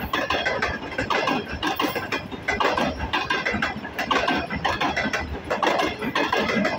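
Passenger train coaches rolling past, the wheels clattering continuously over the rails in a dense run of clicks and knocks over a steady rolling noise.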